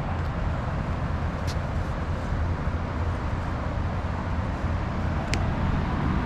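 Steady low rumbling outdoor noise with no distinct source, and two faint short clicks, one about a second and a half in and one near the end.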